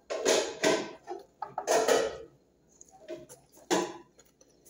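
A person eating food with her fingers from a glass bowl: loud chewing and mouth noises close to the microphone. There are about three short bursts in the first two seconds and one more near the end.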